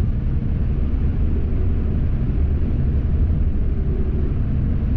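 Steady low rumble of road and engine noise inside a motorhome's cab while it drives at highway speed.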